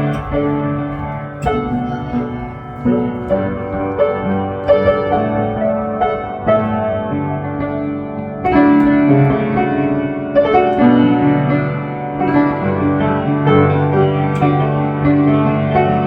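Piano music: melody notes and chords struck in turn, each ringing on and dying away.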